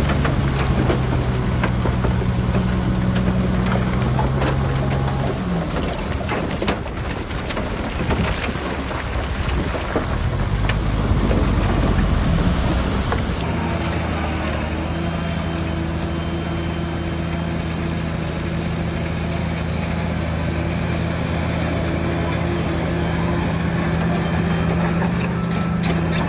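Heavy diesel earthmoving machinery running with a steady engine drone. Through the middle it turns rougher and noisier with clatter, and after an abrupt change about thirteen seconds in the steady drone returns.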